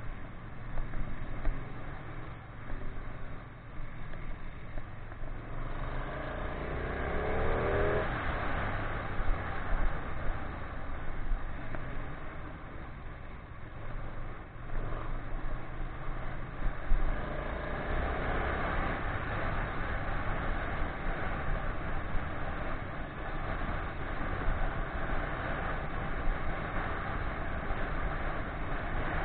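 Ducati 959 Panigale's L-twin engine running under way, mixed with wind and road noise on the bike-mounted camera. It revs up with a rising pitch about six to eight seconds in, and again briefly later on.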